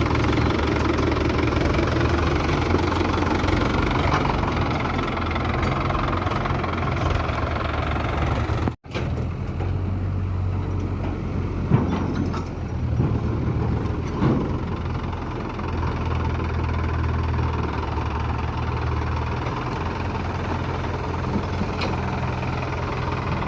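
Tractor diesel engine running steadily, with a low even hum; the sound cuts out for an instant about nine seconds in.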